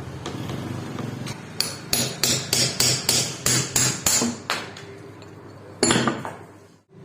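Hammer blows: a quick run of about ten strikes, roughly three or four a second, then after a pause a single louder strike near the end.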